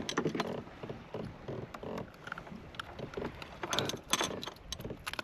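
Irregular clicks, knocks and rattles of handling on a kayak, clustered near the start and about four seconds in, over a low rumble.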